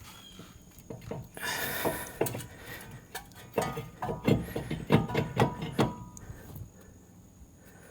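Knocks and rattles from working a stuck front brake caliper loose by hand: a scraping stretch about a second and a half in, then a quick run of sharp knocks, about four a second, for a couple of seconds past the middle. The caliper is held on by pads clamped against a worn, lipped rotor.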